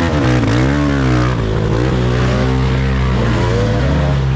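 Dirt bike engines at race pace, several at once, their revs rising and falling with gear changes and throttle blips, then running steadier in the second half.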